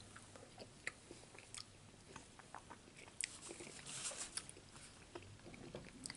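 A man chewing a mouthful of chicken and dumplings: faint, soft mouth sounds with scattered small clicks.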